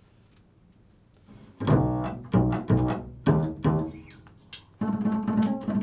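Improvised music on a low-pitched stringed instrument: after a second and a half of near quiet, about five plucked notes ring out one after another, then a held note begins near the end.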